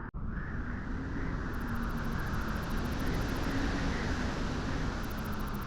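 Steady wind noise, a constant rushing hiss with a low rumble. It cuts out briefly just after the start.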